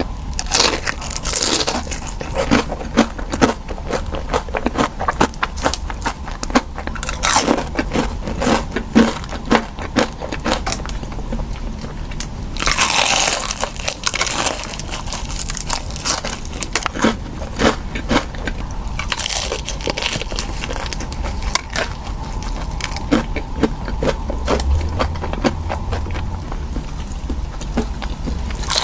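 Close-miked eating of crunchy food: repeated crunchy bites and chewing, with a longer noisy crunching burst about 13 seconds in.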